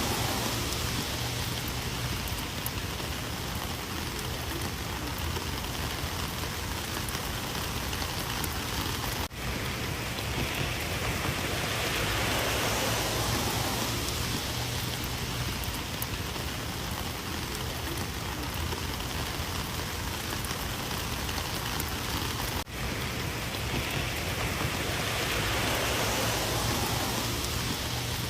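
Steady rain falling and pattering on surfaces, swelling and easing slightly in waves. The sound drops out for an instant twice.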